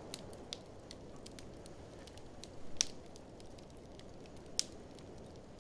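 Wood fire crackling in an open fireplace: a steady low rush with scattered sharp pops, two louder pops just under three seconds in and about four and a half seconds in.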